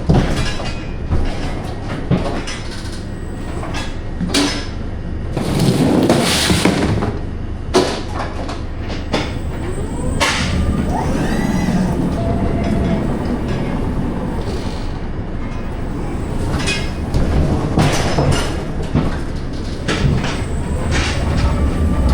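Scania R500 heavy truck running, a steady low rumble with repeated knocks, clatters and rattles, and a hissing rush about six seconds in.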